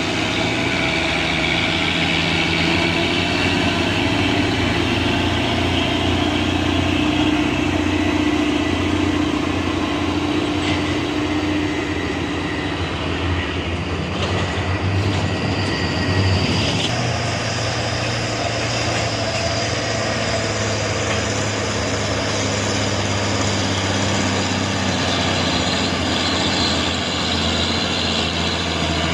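Heavy truck diesel engines running hard on a steep uphill climb, a steady drone whose pitch shifts about 17 seconds in.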